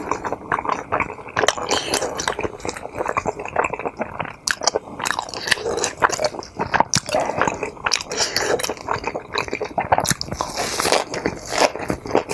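Close-miked chewing of food: wet, squishy chewing with frequent sharp, irregular mouth clicks and smacks.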